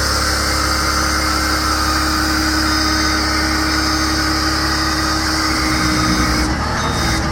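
Caterpillar C7 inline-six turbo diesel of a bucket truck running steadily, with a steady whine over the engine note. The whine and higher sounds drop away about six and a half seconds in while the engine keeps running.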